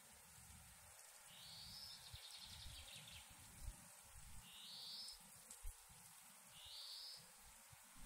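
A songbird singing faintly: a longer buzzy trilled phrase about a second in, then two short high notes a couple of seconds apart, over a faint low rumble.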